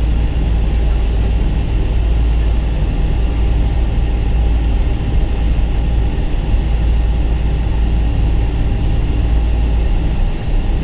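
Boeing 777-200 cabin noise heard from a window seat on the ground before takeoff: a steady deep rumble from the engines at idle, with an even hiss above it.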